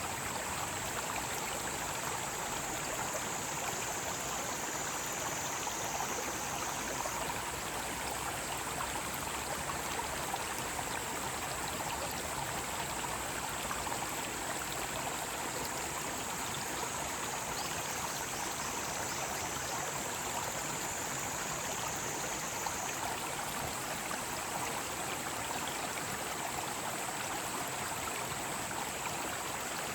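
Mountain stream rushing steadily over rocks, with cicadas singing as a high, constant buzz above the water. Twice, for a few seconds each, another wavering cicada call rises out of the chorus.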